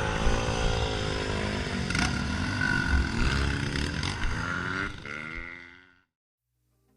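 Dirt bike engine running, its pitch rising and falling with the throttle, then fading out near the end.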